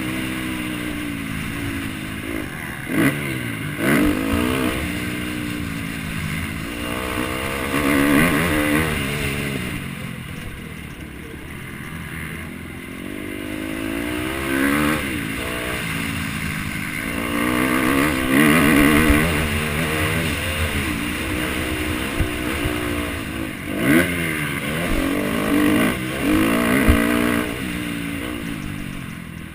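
Motocross bike engine at race pace, revving up and dropping back again and again through gear changes and throttle blips, with a few sharp knocks along the way.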